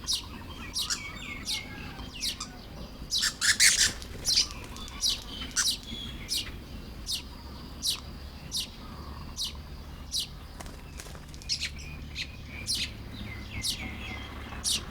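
Baya weavers calling while building their nests: a run of short, sharp, high chirps about one every half to one second, with a dense flurry of chirps about three and a half seconds in.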